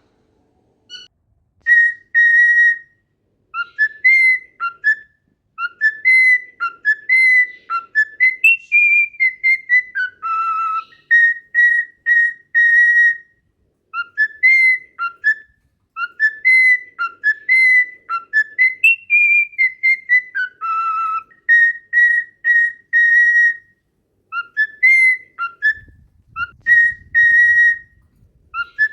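Cockatiel whistling a song: a phrase of clear rising and falling notes that ends in a row of short, steady notes on one pitch, repeated twice through and starting again near the end. A faint low rumble comes in near the end.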